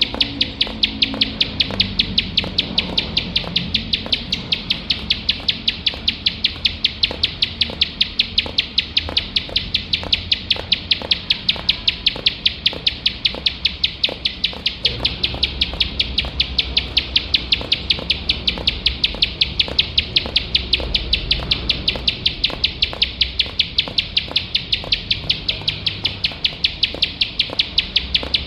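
Plain prinia (ciblek sawah) calling without pause: a rapid, even string of sharp, high notes, about four to five a second.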